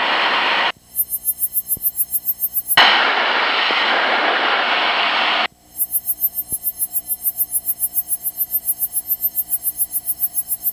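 Cockpit headset audio in a light aircraft: stretches of hiss that switch on and off abruptly, alternating with a rapidly pulsing electronic tone of about seven beeps a second.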